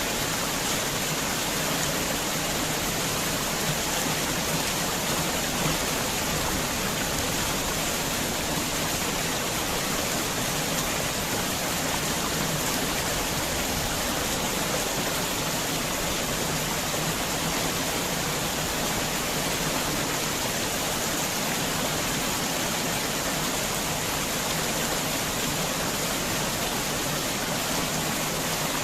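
Heavy rain falling steadily, an even, dense hiss of water.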